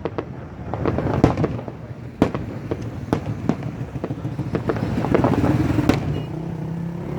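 New Year fireworks going off in irregular sharp bangs and crackles, over a steady low rumble of traffic.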